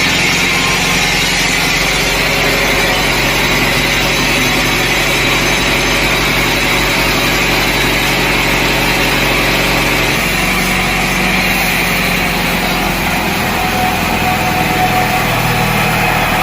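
Steady running of a small engine driving sawmill machinery, with no clear cutting strokes.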